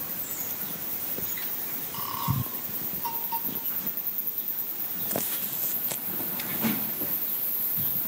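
New Zealand native birds giving a few short, scattered calls, brief notes about two and three seconds in, over a steady high-pitched hiss.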